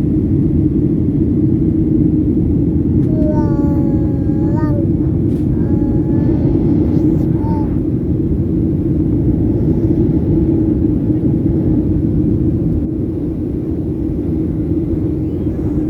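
Steady low rumble of an airliner cabin in flight, from the engines and airflow. A baby's high-pitched vocal calls with sliding pitch come twice, about three seconds in and again about six seconds in.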